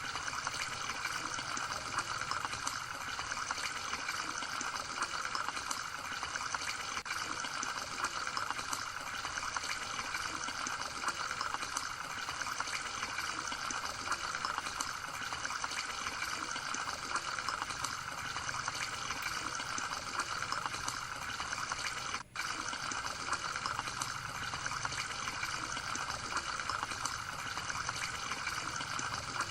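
Running water trickling and splashing steadily, with one very brief cut-out about 22 seconds in.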